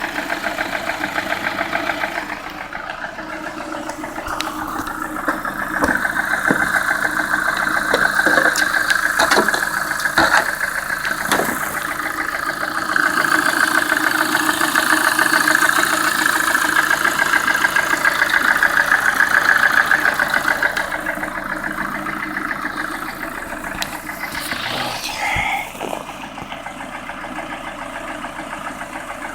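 Lada Priora engine idling warm, with a steady rhythmic knock. The owner cannot tell whether it comes from the pistons or the hydraulic lifters; it appeared after the piston group was replaced.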